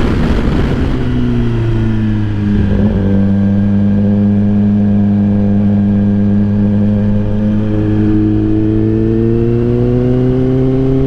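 A road vehicle's engine running under way. Its pitch drops about a second in, holds steady, then climbs slowly near the end as it accelerates.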